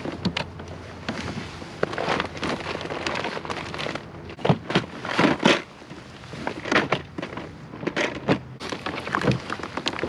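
Irregular knocks, clicks and rattles of fishing gear being handled aboard a plastic kayak, with a cluster of louder knocks about halfway through.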